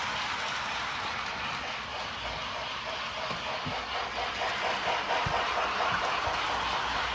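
Lionel O scale Thomas & Friends toy train running on its track: a steady electric-motor hum with wheels clicking rapidly and evenly over the rails, and a few low knocks.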